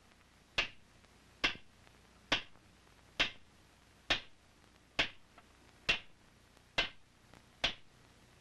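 Blacksmith's hand hammer striking a hot wrought-iron scalp on a swage block, folding it lengthwise into a gun-barrel tube. Nine sharp, evenly paced blows, a little under one a second.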